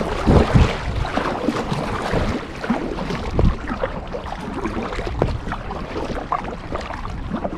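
Gusty storm wind buffeting the microphone, with irregular low thumps, over water splashing around a kayak.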